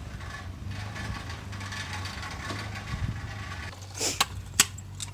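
A steady low motor hum, with two sharp clicks or knocks near the end.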